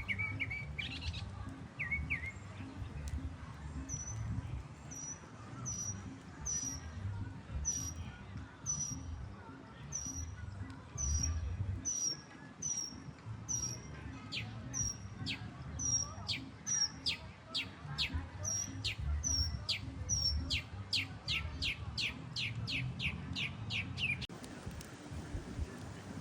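A songbird singing: short high chirps repeated about once a second, then a series of quick downward-sweeping notes that speed up into a fast run and stop near the end, over a low rumbling background.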